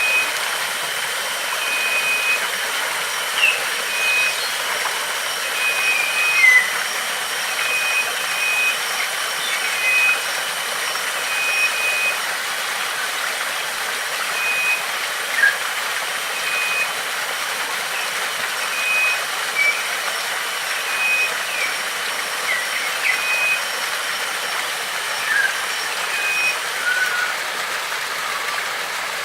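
Steady rush of flowing water, with a bird repeating a short, level-pitched call note roughly once a second and other birds giving scattered brief chirps.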